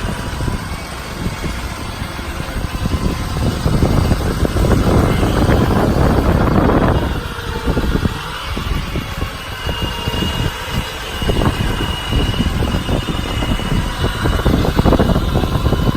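Wind buffeting the microphone in gusts over the bucket truck's Cummins turbo diesel running.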